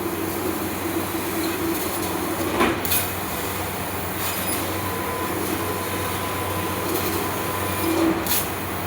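Trishul CNC laser cutting machine running: a steady mechanical hum with a low drone. Two short hissing bursts break it, about two and a half seconds in and again near the end.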